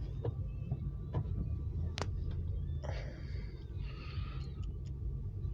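Low steady vehicle rumble, with a few sharp clicks in the first two seconds and two short breathy hisses about three and four seconds in.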